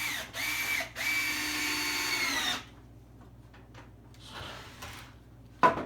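Power drill driving deck screws into scrap wood: two short bursts of the motor's whine, then a longer run about a second in that slows and stops. A single sharp knock near the end.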